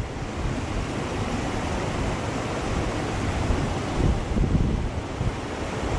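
Small mountain creek rushing over rocks, a steady wash of water noise, with wind gusting on the microphone, most strongly about four seconds in.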